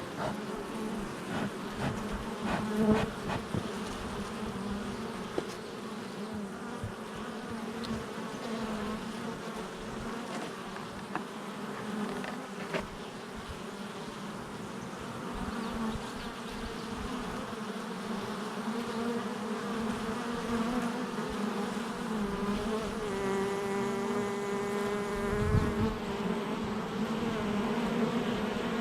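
Many honey bees buzzing at the hive entrance: a steady, layered hum, with single bees flying close past now and then. About 23 seconds in, one bee's louder, higher buzz holds for a few seconds before passing.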